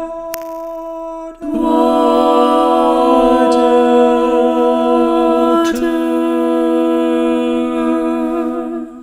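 Unaccompanied voices humming and singing held chords. A new, fuller chord comes in about a second and a half in, with some voices sliding in pitch, and the sound breaks off at the end.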